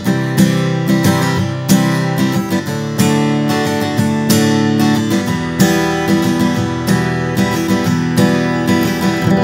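Acoustic guitar strummed in a steady down-up pattern, with an accented stroke roughly every second and a bit, and a chord change about halfway through.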